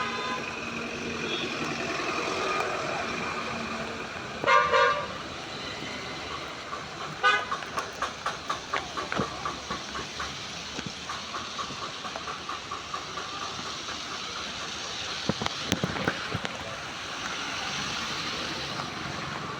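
Vehicle horns honking over a steady hiss of rain and traffic: a short double honk about four to five seconds in, then a run of quick short beeps, about three a second, from about seven seconds in. A few sharp knocks follow near the end.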